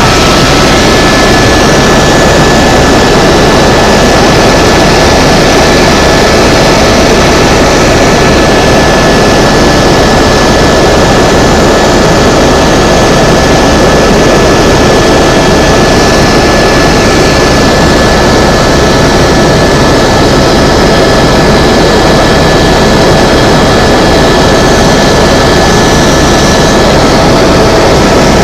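Helicopter in flight: steady, loud engine and rotor noise with a fast low flutter, and a thin steady whine over it.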